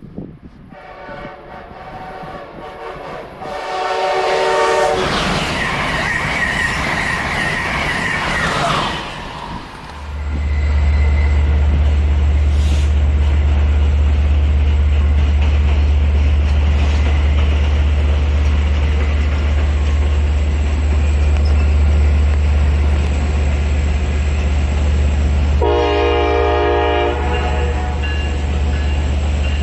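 Amtrak train sounding two horn blasts, then passing with a loud rush of noise and a wavering high whine. From about ten seconds a deep steady rumble runs on, and near the end the horn sounds once more.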